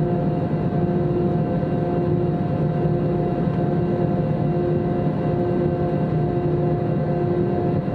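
Airbus A321-200 jet engines and airflow heard from inside the passenger cabin: a steady drone with a few constant whining tones over it.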